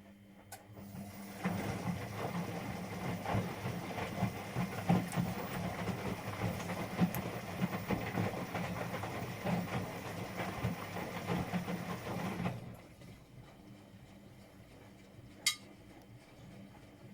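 Domestic washing machine running: a steady hum with a rough, rattling noise over it starts about a second in, runs for about eleven seconds and cuts off suddenly, followed by a single click a few seconds later.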